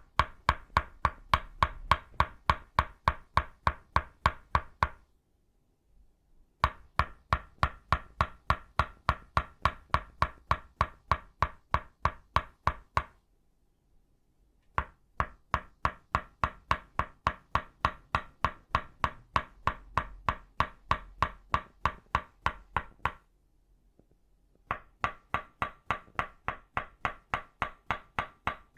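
Tok sen tapping: an itauba-wood mallet striking a wooden stake in fast, even knocks, about five a second, each with a short woody ring. The knocking comes in four runs with brief pauses between them.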